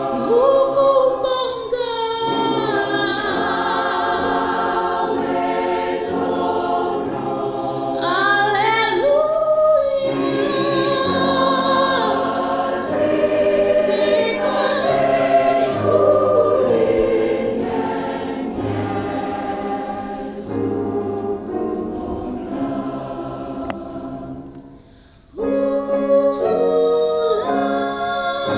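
Mixed community choir singing in several parts. The singing fades away briefly near the end, then the choir comes back in together.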